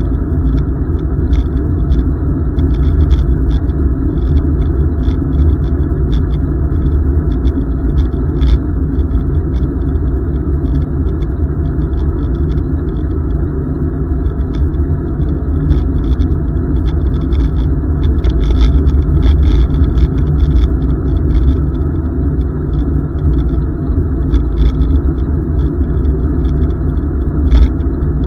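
Steady low wind rumble on the microphone and tyre noise from a bicycle riding along a paved trail, with scattered faint rattles throughout.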